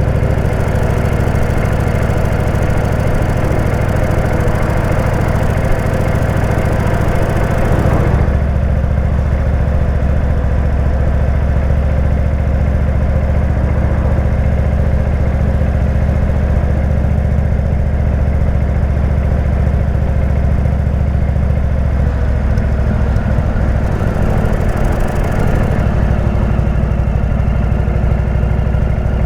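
Indian V-twin motorcycle engine with a Jekill & Hyde exhaust, running steadily with a deep low exhaust note. About eight seconds in, the hiss above it drops away and the low note grows stronger.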